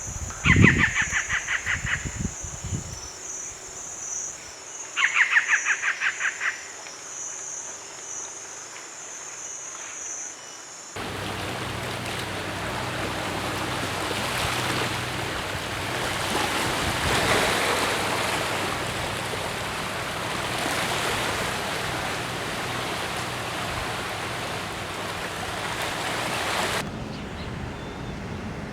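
A bird's rapid pulsed call, given twice in the first several seconds over a steady high-pitched insect-like drone, then a long stretch of even rushing noise like wind or surf.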